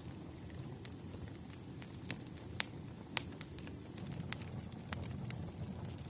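Wood fire crackling: irregular sharp pops and snaps of burning firewood over a low, steady rumble.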